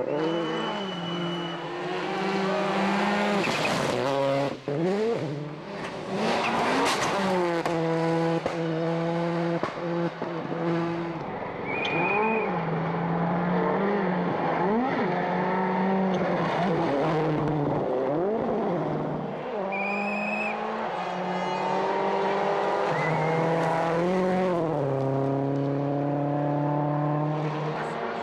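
World Rally Car's turbocharged engine driven hard on a rally stage, revving up and dropping back again and again through gear changes, with short bursts of tyre squeal.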